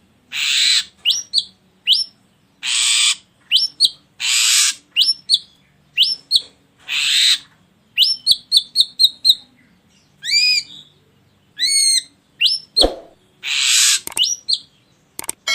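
Ashy drongo song: harsh, rasping notes, each followed by two or three rising whistles, repeated about every one and a half seconds, with a quick run of short whistled notes about 8 seconds in. A single sharp knock sounds near 13 seconds.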